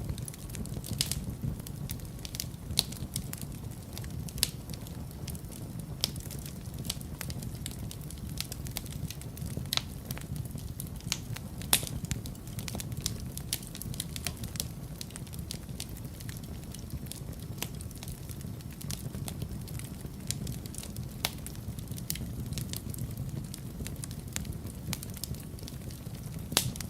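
Wood fire crackling, with a steady low rumble of the flames and irregular sharp pops and snaps, a few of them louder than the rest.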